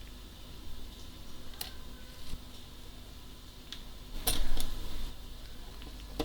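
Small, sharp metallic clicks and taps of tools and parts being handled while the Olympus Ace camera is worked on, with a quick cluster of clicks a little over four seconds in.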